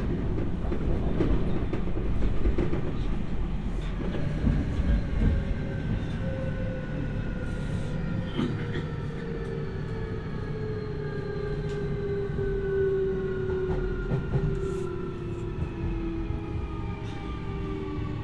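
Onboard running sound of a Keio 1000 series 3rd-batch electric train slowing for a station: rail and wheel rumble with occasional clicks from the track, and the inverter and traction motor whine falling steadily in pitch as the train brakes.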